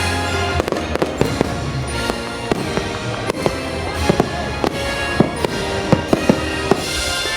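Fireworks going off in a quick, irregular series of sharp bangs over the show's music, which plays steady held notes.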